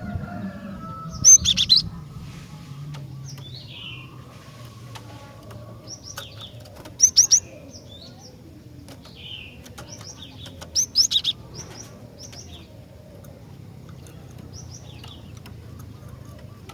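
Female cinereous tit (gelatik batu) calling: scattered short, high chirps, broken three times by loud, fast runs of repeated notes.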